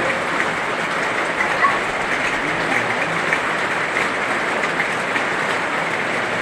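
Heavy rain falling steadily, an even, dense hiss with scattered small drip ticks.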